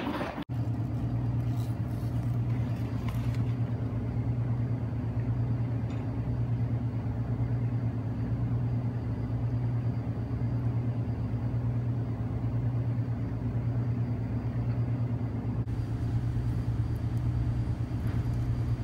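Steady low hum of a running vehicle engine, holding level with no changes, briefly cut out about half a second in.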